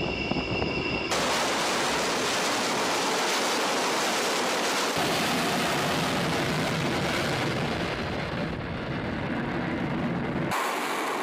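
Loud, steady rushing noise with no distinct tones. It cuts in abruptly about a second in as music stops, and changes sharply twice further on.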